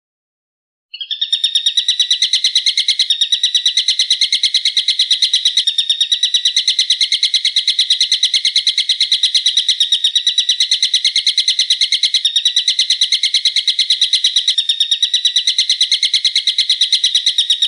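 A bird's call played from a songbird-training recording: a rapid, unbroken chatter of repeated sharp notes, about eight a second. It starts abruptly about a second in and keeps going without a pause.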